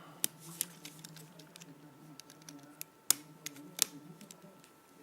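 Scattered small sharp clicks and taps as a small plastic MP3 player and a tool are handled while its casing is worked apart, the loudest about three seconds in and again a little later, over a faint steady hum.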